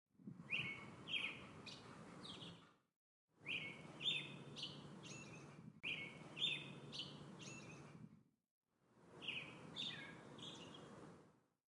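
Songbirds chirping in short repeated phrases over a low, steady outdoor background noise. The recording fades out to dead silence and back in several times.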